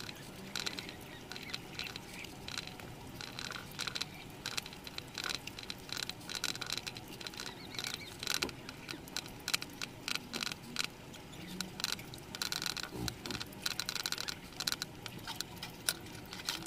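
Close chewing and mouth sounds of someone eating rice and boiled vegetables by hand: a run of quick, irregular wet clicks and smacks.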